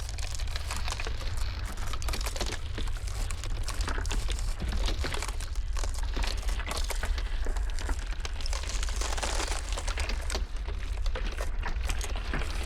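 Iceberg ice cracking and crackling: a dense, irregular run of small snaps and crackles over a steady low rumble of blizzard wind.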